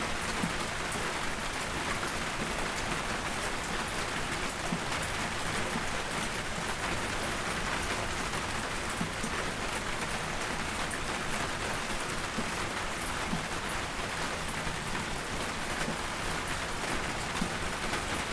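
Steady soft rain hissing without a break, with scattered sharp crackles and pops from a wood fire.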